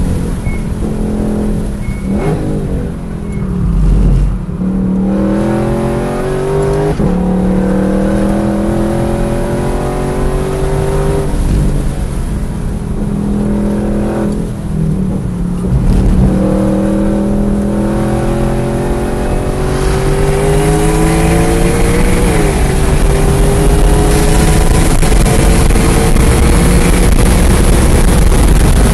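A V8 sports car's engine at full throttle on a race track, heard from inside the cabin. The pitch climbs steadily in each gear and drops at each shift, with lifts for braking and downshifts into the corners in the first half, then a long hard pull through the gears near the end. Road and wind noise run underneath.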